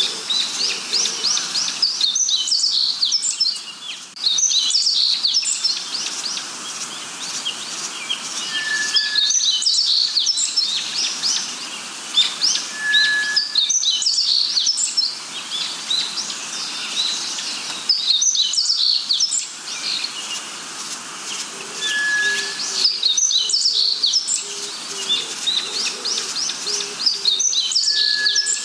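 Dense chorus of forest birds chirping and trilling quickly and high-pitched, with a short clear whistle four times and a run of low repeated notes in the second half.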